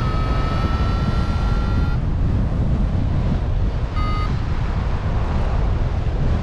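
Wind buffeting the microphone with a steady low rumble. A steady electronic tone, rising slightly in pitch, stops about two seconds in, and a single short beep follows about four seconds in.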